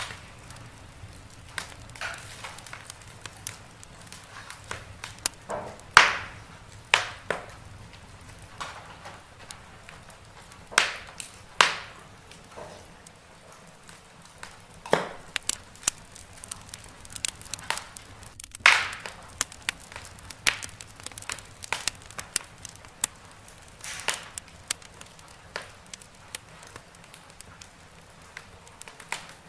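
Wood fire crackling in a fireplace: irregular snaps and pops, a handful of them much louder than the rest.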